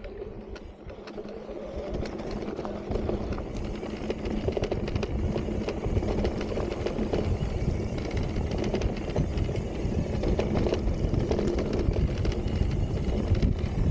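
Electric mountain bike being ridden on loose, rocky singletrack: a steady rumble of tyres over dirt and stones, with many small rattles and clicks from the bike.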